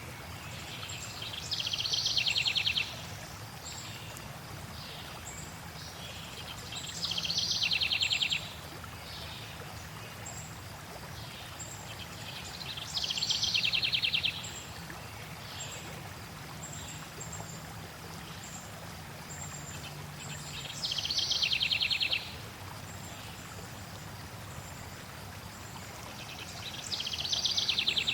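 A songbird repeating a short, rapid trilled song five times, about every six seconds, with faint high chirps between. Under it runs the steady low rush of flowing water.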